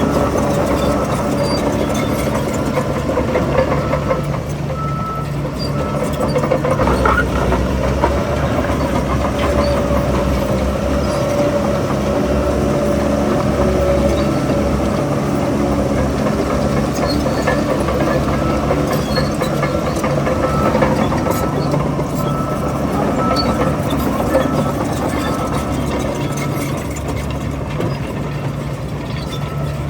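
Crawler bulldozer's diesel engine running steadily at working speed, with faint scattered clanks throughout.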